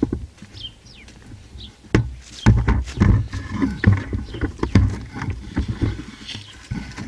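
A string of irregular knocks and clunks, several loud ones from about two seconds in, with rustling between them.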